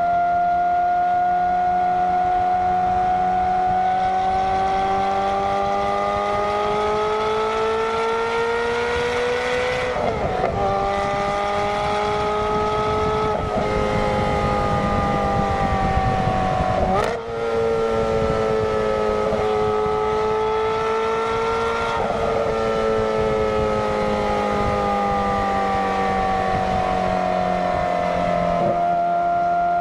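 Ferrari F430's 4.3-litre flat-plane V8 through a Kreissieg valvetronic aftermarket exhaust, giving a high, howling note while driving. It climbs slowly in pitch, then drops and climbs again through gear changes about a third of the way in, near halfway and a little past halfway. After that the note holds and slowly falls as the car eases off, with small breaks as it shifts down.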